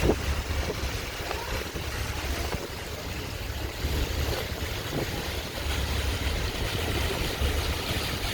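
A ship underway: a steady low rumble with water rushing past and wind buffeting the microphone, with a few faint knocks.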